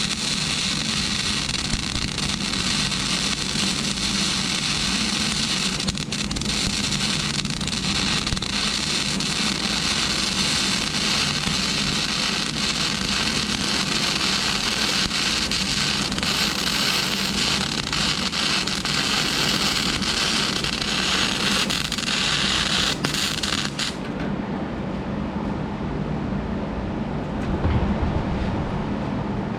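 Flux-core wire-feed welder arc running steadily as a bead is laid, stopping suddenly about 24 seconds in; a steady low hum continues underneath throughout.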